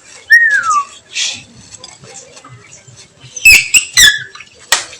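Oriental magpie-robin (kacer) singing: a clear, falling whistled note shortly after the start, then a quick burst of sharp, high notes about three and a half seconds in, and a single click near the end.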